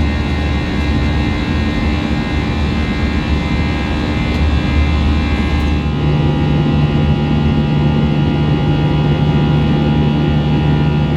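Airbus A321's jet engines heard inside the passenger cabin while climbing, a steady roar with several steady whining tones over it. A low hum comes in about halfway through.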